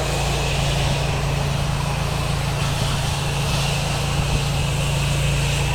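Pressure washer running steadily, its engine humming under the steady hiss of the water spray rinsing a house wall.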